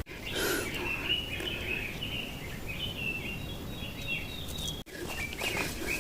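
Small birds chirping in a run of short, high notes over the rustle of someone walking on a mountain trail.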